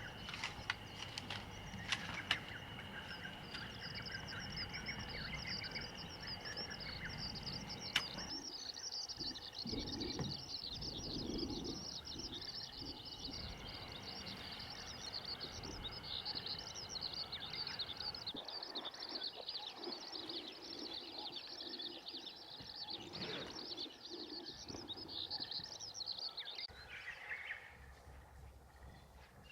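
A bird singing a long, rapid, continuous high twittering song that stops near the end. A few sharp clicks or knocks come in the first seconds.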